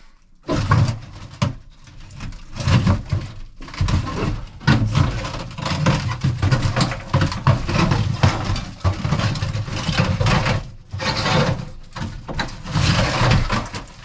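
Gear being rummaged through and shifted around inside a small boat cabin: a steady run of knocks, clatters and scrapes of objects handled and moved.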